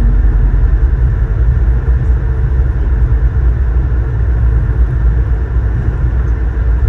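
Loud, steady low rumble inside the cabin of an Airbus A220-300 airliner: its Pratt & Whitney PW1500G geared turbofan engines and rushing air.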